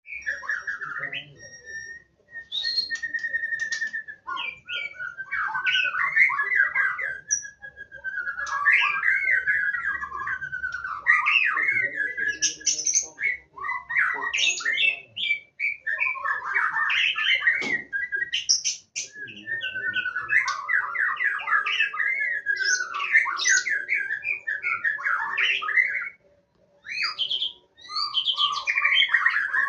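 White-rumped shama (murai batu) singing: long, varied phrases of rich warbles, whistles and sharp chips, broken by a few brief pauses.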